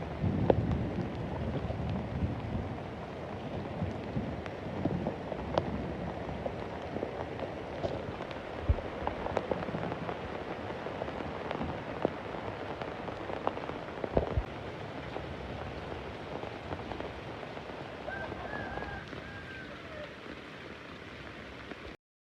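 Heavy rain falling steadily, with scattered sharp drips and splashes striking close by. A low rumble of distant thunder sits under the rain in the first couple of seconds.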